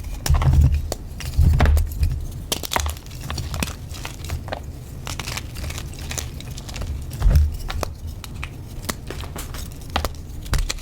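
Reformed blocks of gym chalk being crushed and crumbled: a dense, irregular run of crisp crackling crunches. There are heavier low thuds in the first two seconds and once about seven seconds in.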